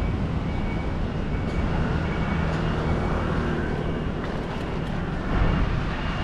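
Road traffic and wind noise heard from a moving bicycle, with a motor vehicle's engine passing about two to four seconds in. A faint high beep repeats under a second apart near the start and again near the end.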